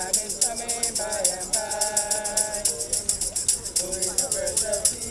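Group of voices singing a gospel hymn, holding long notes, while a shaker keeps a steady quick beat.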